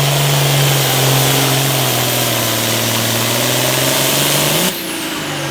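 Hot farm pulling tractor's engine running hard at high revs, its pitch sagging slowly as it is loaded down. It cuts off suddenly near the end, leaving quieter engine noise.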